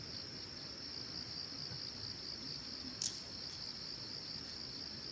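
Insects trilling steadily in a high, even band, with one sharp click about three seconds in.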